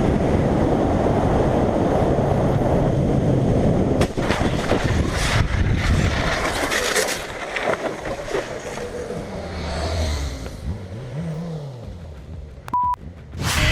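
Motorcycle riding with loud wind and road noise, and a few sharp knocks between about four and seven seconds in. The noise then eases off, an engine note rises and falls once, and a short beep sounds near the end.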